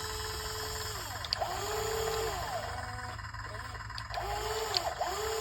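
Radio-controlled excavator's electric motors whining in repeated bursts of about a second, each rising in pitch, holding, then falling as the machine works, with a few faint clicks.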